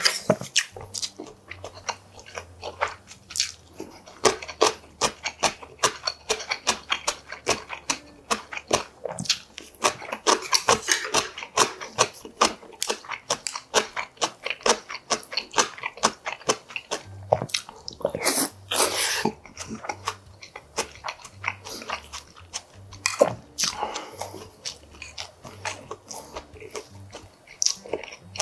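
A man chewing and biting food, a steady run of quick, wet, crunchy mouth clicks.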